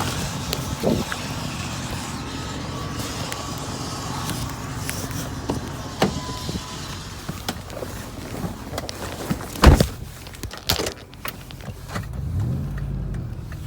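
A car engine running steadily, with scattered sharp clicks and knocks over it and a brief rise in pitch near the end.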